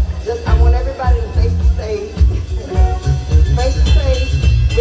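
Live band playing a song: drum kit and bass giving a strong, steady beat, with a melody line over it.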